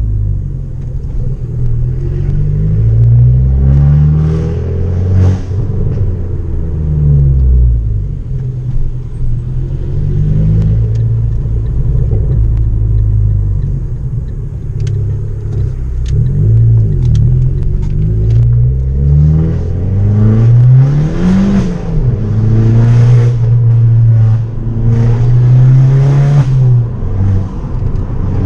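Abarth 500's turbocharged four-cylinder engine through a decatted, straight-piped Bombardone exhaust, its loud note rising and falling over and over as the revs climb and drop back. A few sharp crackles come from the exhaust around the middle as the revs fall.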